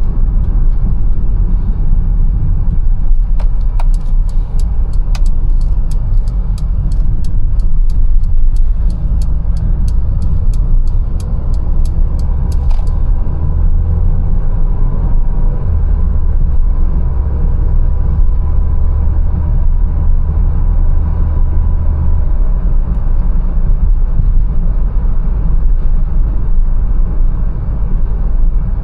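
Mercedes-Benz A180 driving, a steady low road and engine rumble. From a few seconds in, a sharp ticking at about three clicks a second runs for about nine seconds and stops suddenly, like the turn-signal relay clicking.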